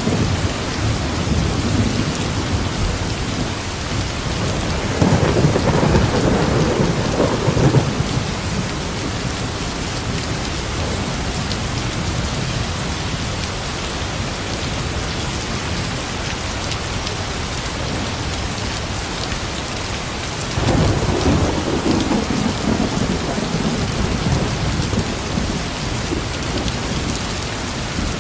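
Steady rain falling, with two low rolls of thunder, one about five seconds in and another about twenty seconds in.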